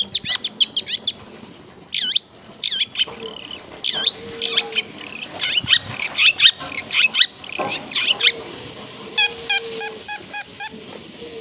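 Long-tailed shrike (cendet) singing a fast, varied song of sharp chirps and sweeping whistles, full of mimicked phrases, with a quick run of evenly repeated notes, about five a second, near the end.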